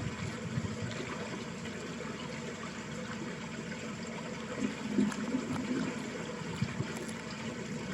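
Water running steadily along a small ditch, with a bubbling wash and a brief louder gurgle about five seconds in.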